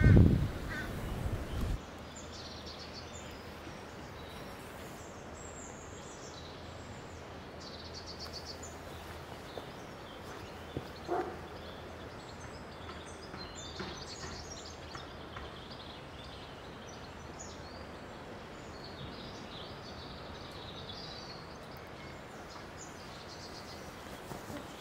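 Outdoor ambience: a faint steady background hiss with scattered high-pitched chirps from small birds, and one short lower call about eleven seconds in. A louder low-pitched noise fills the first couple of seconds.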